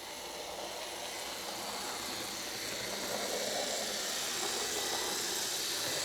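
Lima HO scale model locomotive, an NS class 1300, running along the track with its small electric motor whirring and its wheels rolling on the rails. It grows steadily louder as it comes closer, and it runs smoothly straight out of the box.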